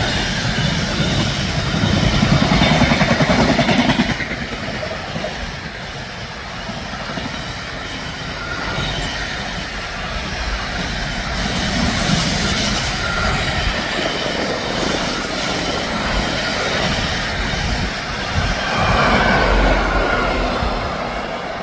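A train passing on the track, its wheels clattering rhythmically over the rails, loudest a few seconds in and then running on more steadily, with brief high squealing tones from the wheels later on.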